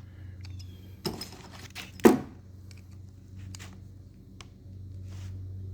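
Metal clinks and a knock from a chain breaker tool being worked on a roller chain: a click about a second in, a louder clunk about two seconds in, then a few faint ticks, over a steady low hum.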